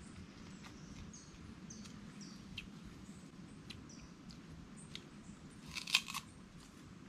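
Sugar cane being bitten and chewed: scattered crunchy cracks as the fibrous stalk is mashed between the teeth, with the loudest burst of crunches about six seconds in. A bird gives a few short falling chirps in the first half.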